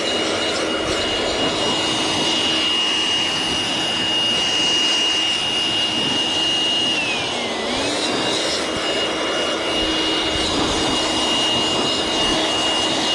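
Motor-driven blower running steadily with an airy rush and a steady whine, used to blow bees off honey frames. About seven seconds in, the whine sags in pitch and climbs back up a second later.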